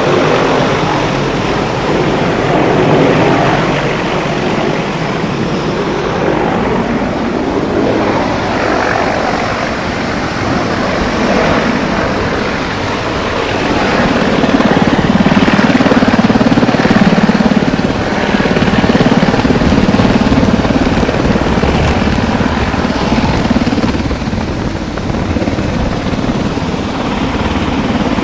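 Firefighting helicopter hovering low, with steady rotor and engine noise that grows louder from about halfway through and eases off again near the end.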